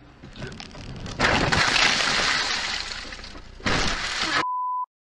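A vehicle collision recorded by a dashcam: a noisy crash sound swells about a second in and stays loud for about two seconds, then a second short burst follows. A steady censor bleep tone sounds briefly near the end.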